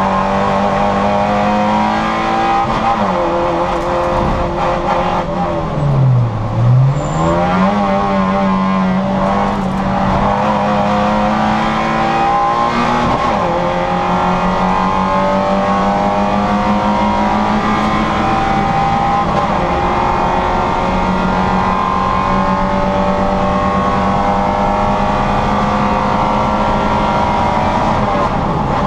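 Citroën Saxo VTR's four-cylinder engine running flat out at high, nearly steady revs. About six seconds in, the revs drop sharply and climb straight back.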